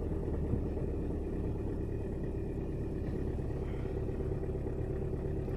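Volkswagen Touran 2.0 TDI four-cylinder turbodiesel idling steadily with the engine still cold, about a minute after a cold start.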